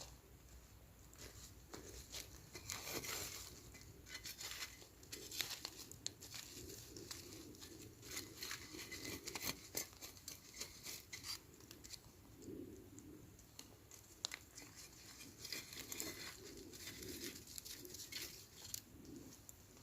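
Irregular rustling and crinkling, scattered with light clicks, as of something being handled up close.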